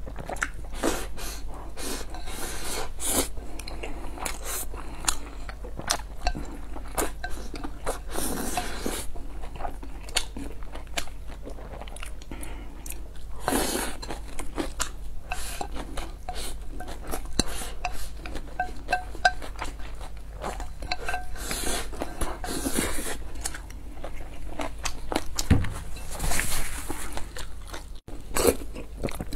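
Chewing of rice and braised meat, with wooden chopsticks clicking and scraping against a ceramic bowl as mouthfuls are lifted, in many short clicks and a few louder bursts.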